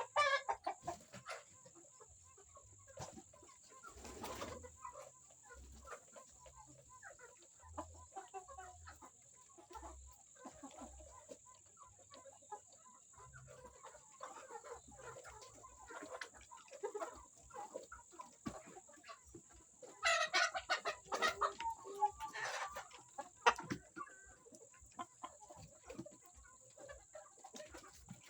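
Flock of 20-week-old Sasso and Plymouth Rock chickens clucking in scattered short calls, with a louder flurry of calls about two-thirds of the way through.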